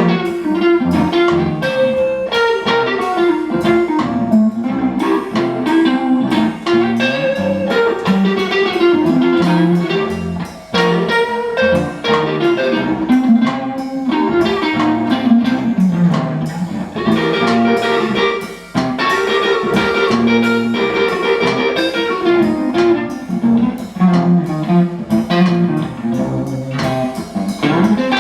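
Blues music, an instrumental passage led by guitar over a steady beat.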